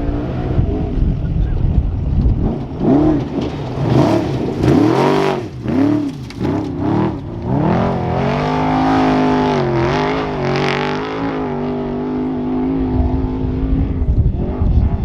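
Trophy truck's engine revving, rising and falling in pitch several times, then holding a steady note for about five seconds before it fades near the end.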